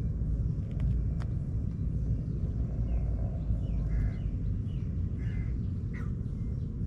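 Steady low outdoor rumble with several short bird calls between about three and six seconds in, plus a couple of faint ticks near the start.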